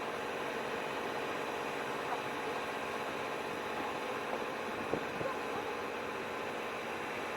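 Diesel train engine idling, a steady, even drone.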